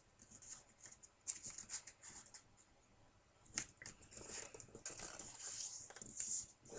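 Faint rustling and crackling of a square sheet of origami paper as it is unfolded and folded in half along the diagonal and the crease is pressed down, in scattered soft bursts.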